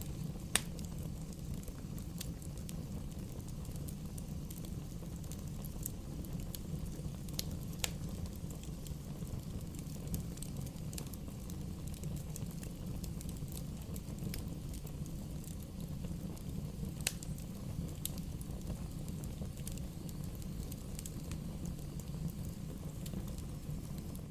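Wood bonfire burning: a steady low rumble of flames with scattered sharp pops and crackles, a few louder pops standing out.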